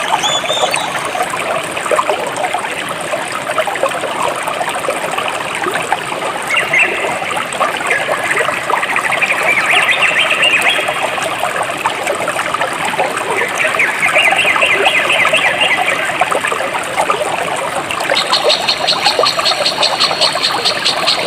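A jungle stream trickling and splashing steadily over rocks. Rapid high trilling calls rise over the water twice in the middle, and a faster, higher pulsed trill starts near the end.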